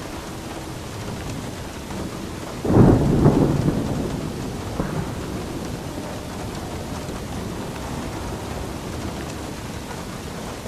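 Steady rain with a clap of thunder about three seconds in that rumbles and dies away over a couple of seconds.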